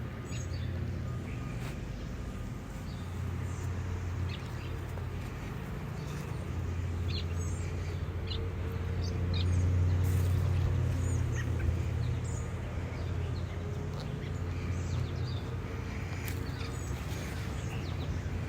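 Birds chirping: short, high calls that repeat every second or so, over a steady low rumble that swells for a few seconds around the middle.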